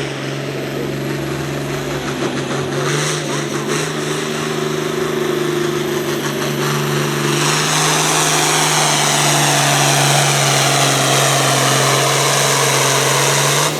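Competition pulling vehicle's engine running at full throttle, its pitch held steady during a pull. About halfway through, a loud rush of noise and a slowly falling high whine join in.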